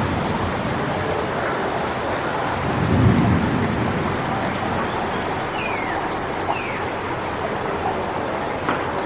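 Strong wind gusting through coconut palm fronds: a steady rushing noise, with a low rumbling swell about three seconds in.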